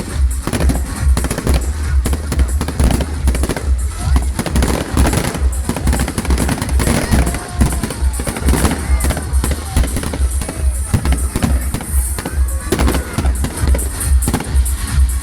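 Fireworks crackling and banging over music with a steady, heavy bass beat.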